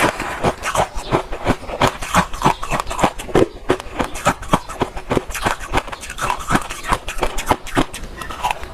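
Close-miked crunching of ice being chewed: a steady run of sharp crunches, several a second.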